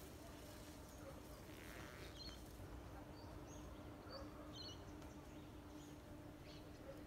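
Faint, scattered short bird chirps over quiet bush ambience, with a low steady hum underneath.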